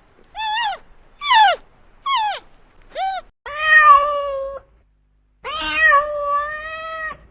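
Cat meowing: four short meows that drop in pitch, about one a second, then two long drawn-out meows held at a steady pitch.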